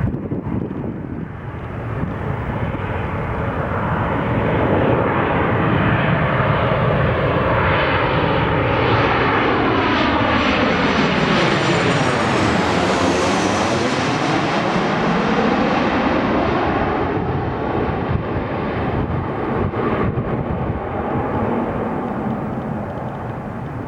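Boeing 737-800 jet passing close by as it comes in to land, its turbofan engines growing louder and then fading. About halfway through there is a sweeping, swooshing tone as it goes past.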